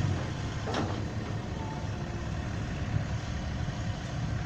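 Truck engine running steadily under a broad haze of vehicle noise, with a brief passing whoosh about a second in.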